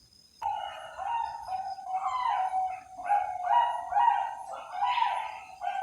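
Perkutut Bangkok (a bred zebra dove strain) singing its cooing song: a quick run of short, pitched coos starting about half a second in and repeating in phrases.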